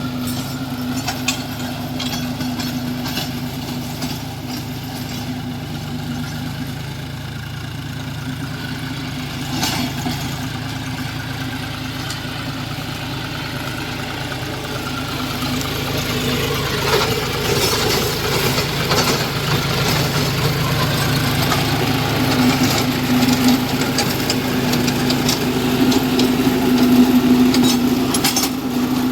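John Deere tractor engine running steadily with a constant low hum, growing louder and busier about halfway through.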